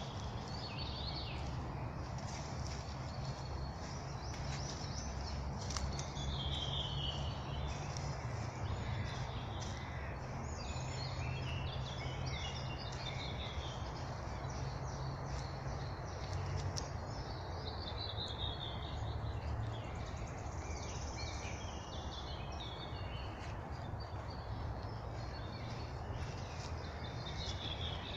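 Songbirds singing in a spring forest, with short phrases repeated every few seconds, several sliding down in pitch, over a steady background hiss and low hum.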